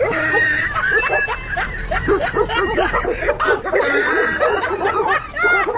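People laughing and snickering, several voices at once.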